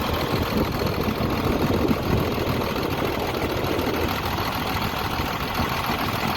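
An engine idling steadily with a fast, even run of ticks in its running: an abnormal engine noise.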